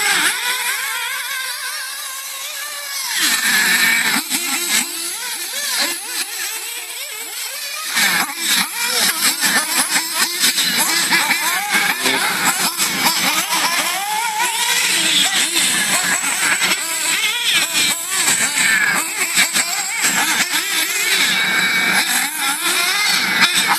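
Battery-powered RC cars' electric motors whining, the pitch rising and falling quickly as they accelerate and brake, with many short clicks and knocks through the second half.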